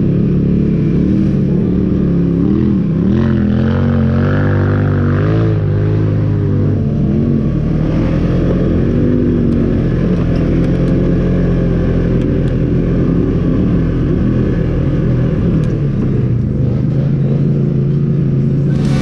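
Off-road vehicle engine running, its pitch wavering up and down as the throttle changes.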